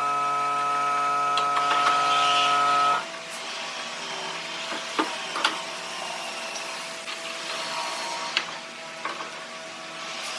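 A power tool's electric motor runs steadily and cuts off abruptly about three seconds in. It is followed by light knocks and clicks of wood and tools being handled over a faint steady hum.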